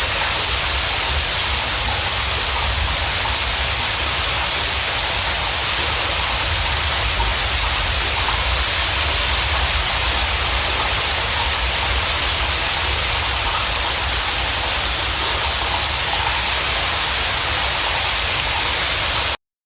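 Steady rain falling, an even hiss with the patter of drops and no birdsong. It cuts off abruptly near the end.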